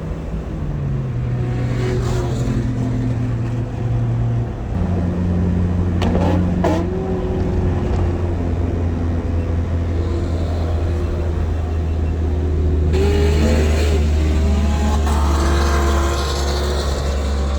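Turbocharged Honda Civic's engine running under way. Its pitch steps down a couple of times in the first few seconds, then holds low and steady.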